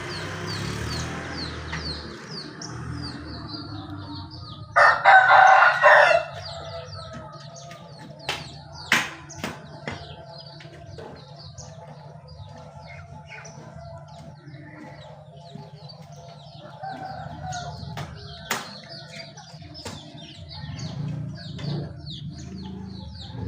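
Young murai (Copsychus songbird) chirping in rapid, repeated short high notes, with a few sharp splashes or wing flicks. A rooster crows loudly once about five seconds in.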